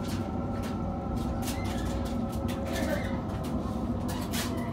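Interior sound of a Waratah A set electric train running: a steady low rumble with a constant motor hum and scattered wheel clicks over the rail joints, as it pulls into a station.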